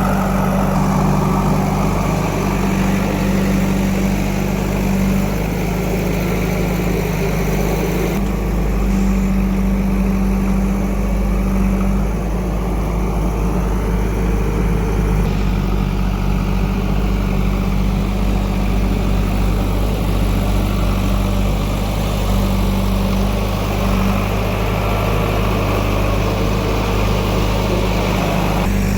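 Heavy diesel engine running steadily at low speed, an even deep hum, with abrupt shifts in tone about 8 and 15 seconds in.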